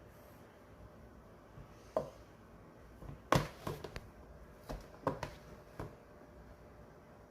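A handful of short, light knocks and taps, about seven, spread over a few seconds, with the loudest near the middle.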